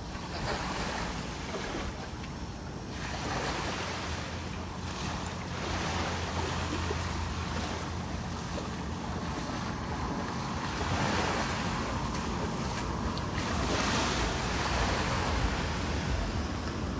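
Ocean surf washing in and out, with wind on the microphone; the rush swells and eases every few seconds as waves come in.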